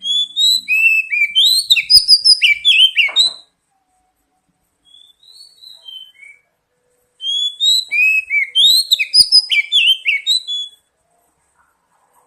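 Oriental magpie-robin (kacer) song: two loud bursts of rapid, gliding whistled notes. The first lasts about three seconds, a few soft notes follow, and the second burst starts about seven seconds in and lasts about three and a half seconds.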